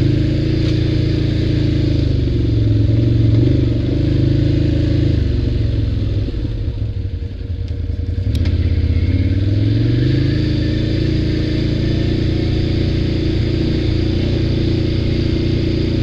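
ATV engine running under way. It slows, dropping to low revs about six to eight seconds in, then speeds back up and runs steadily again.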